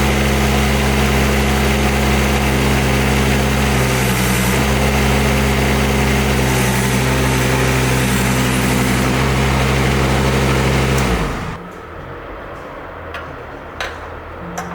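Mini excavator's diesel engine idling steadily, then shut off about eleven seconds in; a few light clicks follow.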